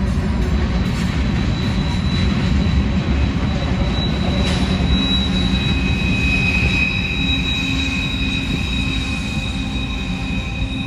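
Long freight train rolling past, its cars rumbling steadily over the rails, with wheels squealing in a thin, steady high tone from about a second in; a second, lower squeal joins about halfway.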